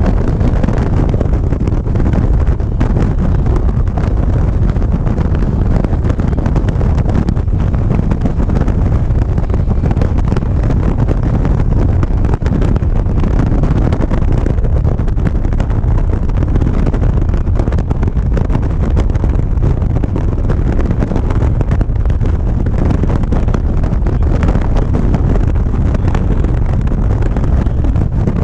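Steady wind rushing over an action camera's microphone on a moving motorcycle, heaviest in the low end, with the motorcycle's engine and road noise running underneath.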